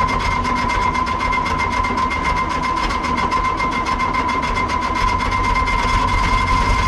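Excavator's diesel engine cranking on the starter without catching, a steady rhythmic chugging with a constant whine. The engine won't fire, which the owner puts down to air in the fuel system after it lost prime.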